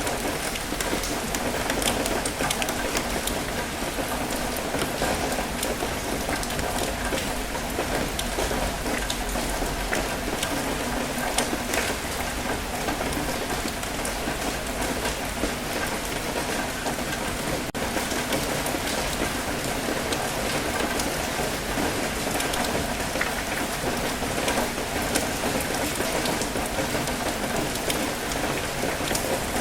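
Steady rain with many separate drops ticking, over an even wash of water noise.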